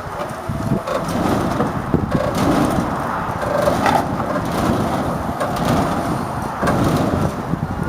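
Truck box body scraping and creaking as a winch drags it onto a trailer: crackling and cracking over a steady low rumble, with a short squeak about halfway through.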